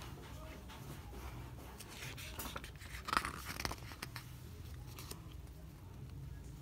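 Pages of a glossy photo book being handled and turned: a short rustle and crinkle of paper about two to four seconds in, over a low steady hum.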